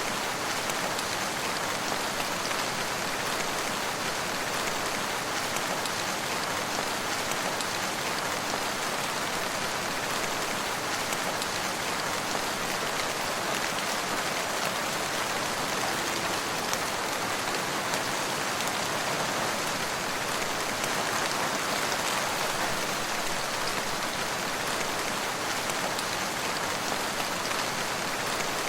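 Steady, even rainfall, a dense hiss of drops pattering on surfaces with fine individual drop ticks.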